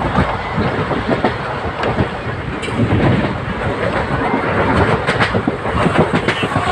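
Passenger express train running on the rails: a steady loud rumble with the wheels clattering over rail joints.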